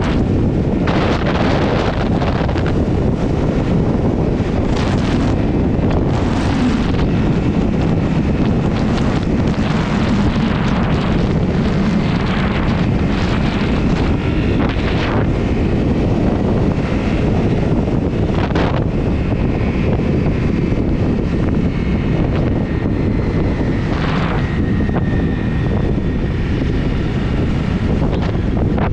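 Heavy wind buffeting the microphone of a moving motorcycle, with the Honda CRF250's single-cylinder engine running steadily underneath.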